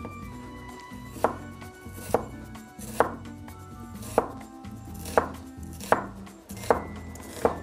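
Chef's knife slicing a red onion on a plastic cutting board: about eight sharp knocks of the blade on the board, roughly one a second.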